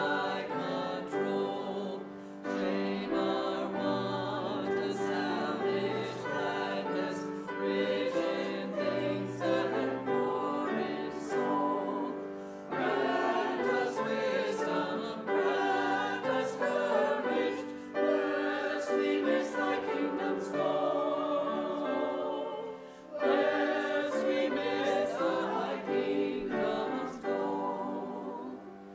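A congregational hymn being sung by voices with a keyboard accompaniment, in phrases with short breaths between lines.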